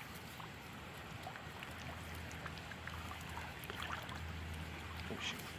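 Quiet riverbank ambience: faint flowing water and a low rumble that swells and fades, with a few small scattered clicks.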